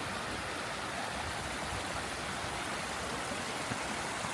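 Mountain stream running over small cascades and rivulets, a steady rush of water.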